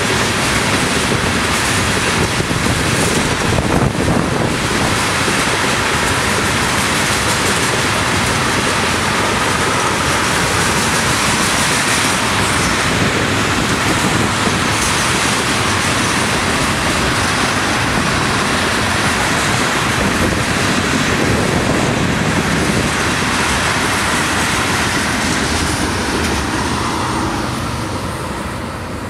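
Tank cars of a unit ethanol freight train rolling past: steady wheel-on-rail noise, fading over the last few seconds as the end of the train moves away.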